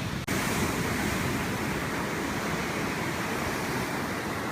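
Atlantic Ocean surf washing steadily, heard as a continuous rush with wind buffeting the microphone. The sound cuts out for an instant about a quarter second in, then resumes.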